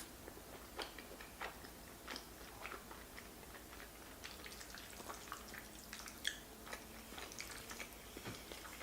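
Close-miked chewing of king crab fettuccine Alfredo: soft, wet mouth smacks and clicks at an irregular pace.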